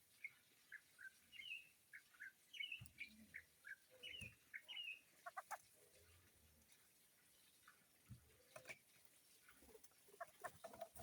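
Faint short high chirps from a bird, a quick run of them over the first five seconds, then a few scattered faint clicks and taps.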